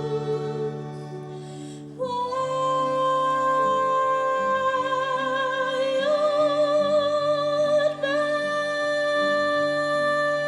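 Song with a woman's voice singing long held notes with vibrato, jumping up in pitch about two seconds in and stepping higher again around six and eight seconds in, over sustained low accompaniment.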